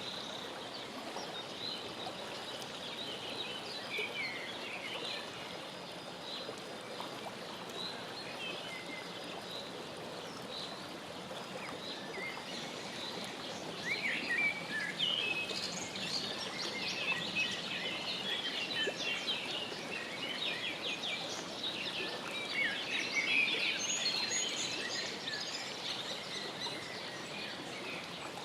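Birds chirping: scattered short high chirps at first, then a dense, louder run of rapid chirps through the middle and latter part, over a steady outdoor background hiss.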